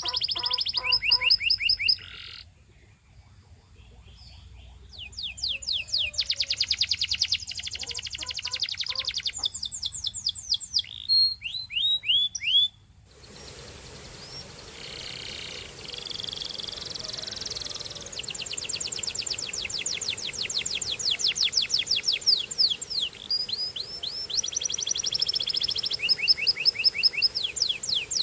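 Canary singing: fast trills of rapidly repeated notes, broken by short pauses, with a quieter spell a few seconds in. About halfway through, a steady hiss comes in under the song.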